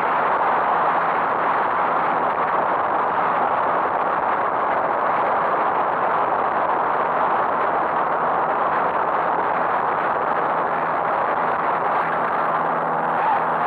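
A car driving along, a steady rush of road and engine noise with a faint low hum.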